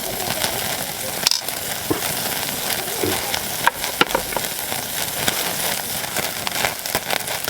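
Wagyu sirloin steak sizzling over a wood fire, its fat spattering with frequent sharp pops over a steady hiss. The sizzle drops out for a moment a little over a second in.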